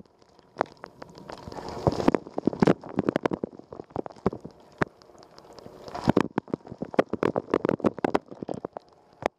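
Water spraying and splashing inside a running Rosenlew dishwasher: a dense, irregular patter of water hitting the walls and dishes, with the rush of spray swelling twice.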